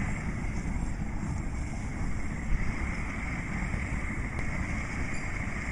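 Propane burner of a homemade chile roaster running, a steady rushing noise, with wind buffeting the microphone.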